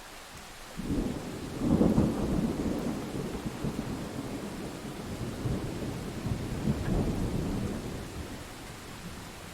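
Thunder rolling over steady rain: the rumble starts suddenly about a second in, peaks near two seconds, swells again near seven seconds, then fades back to the rain's hiss.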